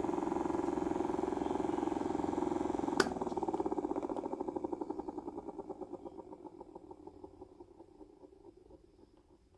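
Small battery-powered DC motor running with a steady buzzing hum, switched off with a click about three seconds in, then spinning down, its hum breaking into slower and slower pulses as it fades.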